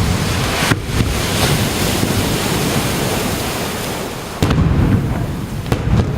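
Surf washing on the beach with wind buffeting the microphone, then a sudden boom about four and a half seconds in, followed by a couple of sharper cracks: fireworks bursting over the sea.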